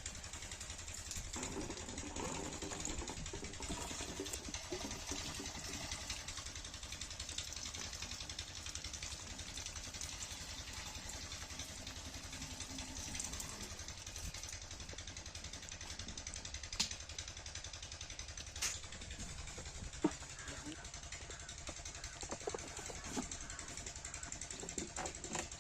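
7 HP single-cylinder diesel pumping engine running steadily, with a fast even low chugging. A few sharp clicks or knocks sound in the second half.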